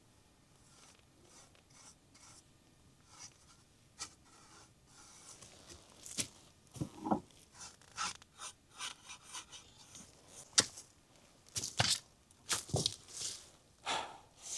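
Irregular close handling sounds: faint rubbing, then from about halfway on a run of scrapes and light sharp knocks at uneven intervals.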